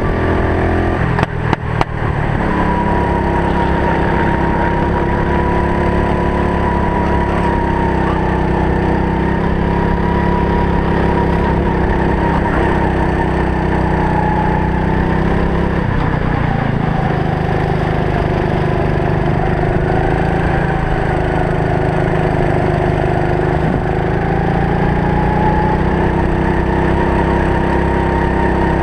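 A racing kart's small engine running on track, its pitch rising and falling gently with the throttle. A few sharp clicks come about a second in.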